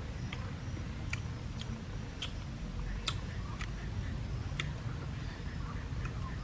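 A person chewing and smacking his lips while eating shrimp by hand, making short irregular clicks about twice a second over a low steady rumble.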